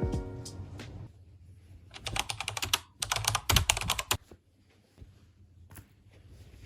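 Piano music dies away at the start, then two runs of rapid, light clicking, one about two seconds in and a longer one about three seconds in, like typing on a keyboard.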